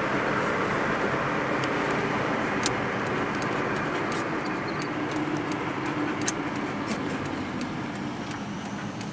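A motor vehicle running steadily with road rumble, low engine hum and scattered sharp rattles, slowly fading toward the end.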